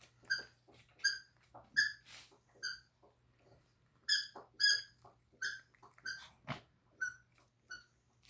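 A dog whining in short, high-pitched squeaks, about a dozen of them at uneven intervals, with a single knock about six and a half seconds in.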